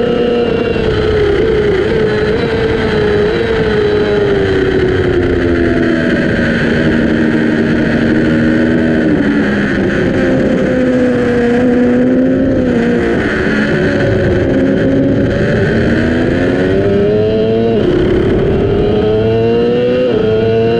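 Yamaha R6's inline-four engine heard on board at racing speed, with rushing wind noise. The revs sink gradually through a long corner for the first half, then the engine pulls hard near the end, climbing in pitch with two sharp upshifts about two and a half seconds apart.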